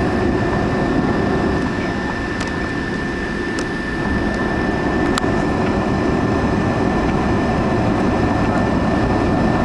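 Steady engine and airflow rumble inside a jet airliner's cabin, with a thin steady whine above it and a few faint clicks.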